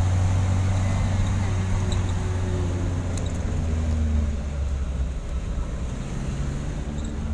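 A motor vehicle's engine running with steady road noise as it drives along a hilly, undulating road; the low engine hum eases and drops slightly about four seconds in.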